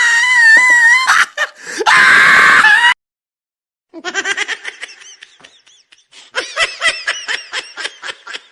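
A loud, high-pitched wavering scream, broken once and cut off abruptly about three seconds in, then after a second of silence a run of rapid, choppy laughter.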